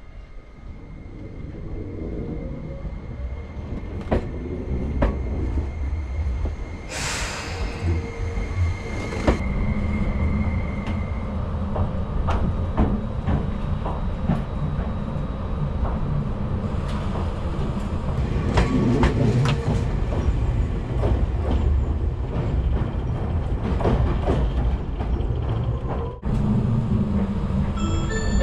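Tobu Spacia X electric train heard from on board as it pulls out of the station and gathers speed: a low rumble that grows louder over the first ten seconds, a brief hiss about seven seconds in, and the wheels clicking over rail joints.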